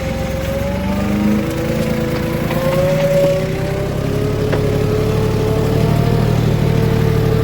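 JCB 3DX backhoe loader's diesel engine working under load, its pitch climbing slowly as it revs up.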